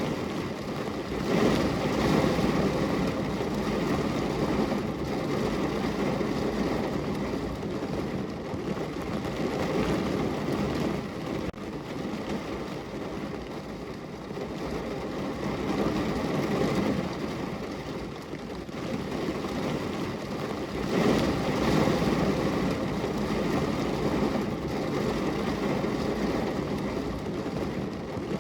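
Heavy rain drumming on a car's roof and body, heard from inside the car as a dense, steady patter that swells louder for a few seconds near the start and again about three-quarters of the way through.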